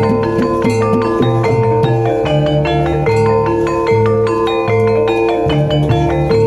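Javanese gamelan-style music for an ebeg (kuda lumping) dance: mallet-struck percussion plays a quick run of notes over lower sustained tones.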